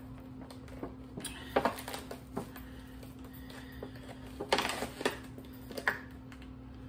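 Plastic wrap and a clear plastic takeout clamshell crinkling and crackling as they are handled and pulled at while being opened, in a handful of sharp crackles with a cluster a little past the middle. A steady low hum runs underneath.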